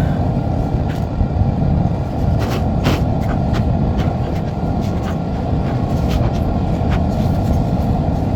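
Vehicle engine running with a steady low rumble, with a few faint ticks over it.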